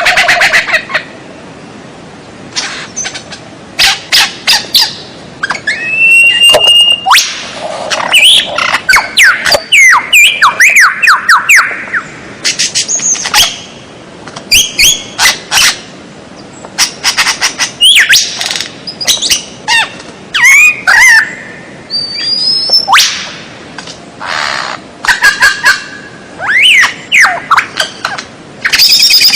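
Songbird masteran recording: loud bursts of rapid, varied chirps, sharp clicks and gliding whistles, separated by short pauses.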